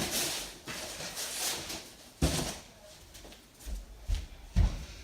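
Cardboard panels being handled and fitted together, with scraping rustles of cardboard rubbing on cardboard and a sharp knock about two seconds in, then two more knocks near the end.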